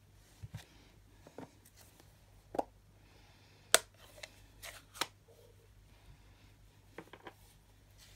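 A few light clicks and taps of stamping supplies being handled on a craft desk, the sharpest about three and a half seconds in.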